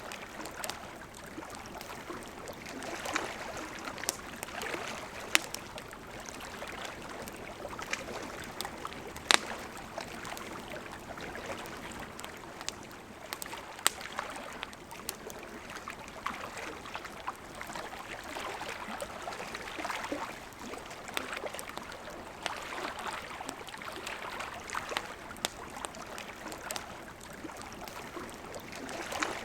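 River water flowing steadily, with a wood campfire crackling over it in irregular sharp pops, the loudest about five, nine and fourteen seconds in.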